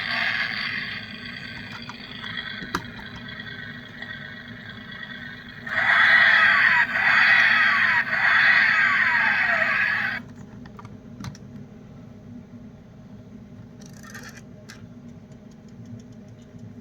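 Die-cast Mercedes G-Class toy car's built-in sound module playing an engine sound effect through its small speaker: briefly at the start, then again for about four seconds in the middle, with a few falling sweeps like revs dropping. Scattered clicks of the toy being handled.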